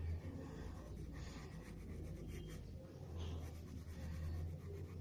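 Graphite pencil shading on paper: faint, scratchy back-and-forth strokes as the tone of a drawn eye is darkened.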